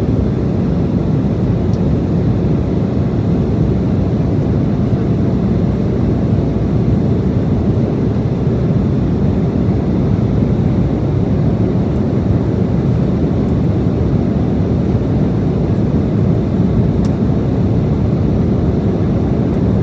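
Steady engine and airflow noise inside the cabin of an Embraer E175 airliner powered by two GE CF34-8E5 turbofans: an even, unchanging low rumble.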